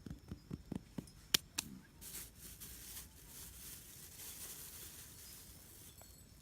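A quick run of about eight sharp taps or knocks, the loudest a little over a second in, then a few seconds of rustling.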